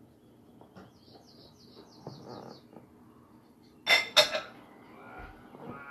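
Small birds chirping faintly in a quick series on a TV nature documentary's soundtrack, then two sharp clinks of dishes about a third of a second apart near the middle.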